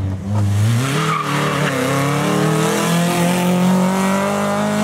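Rally car engine under hard acceleration: revs low at first, climbing from about half a second in, then held high and rising slowly as the car pulls away.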